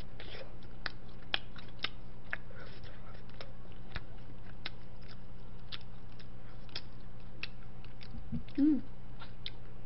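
Close-miked chewing of boiled pork liver, with irregular wet mouth clicks and smacks. A short hum of voice comes near the end.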